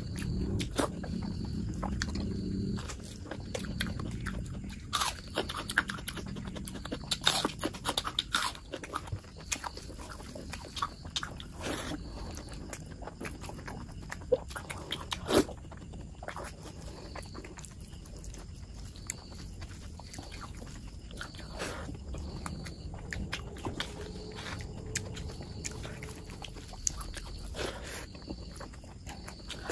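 A person eating oily mutton fat curry and rice by hand, close to the microphone: wet chewing and mouth smacks with many sharp clicks, a few louder ones in the middle. A low hum sits under the first few seconds.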